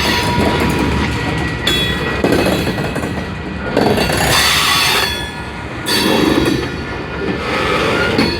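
A long train's cars rolling past on the rails, the wheels clattering with a thin high squeal riding over the noise, which swells and eases in waves as the cars go by.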